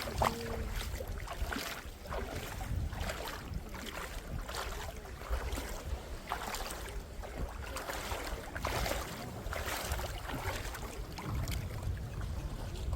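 Wind rumbling on the microphone, with repeated soft swishes of seawater at the beach, about one a second.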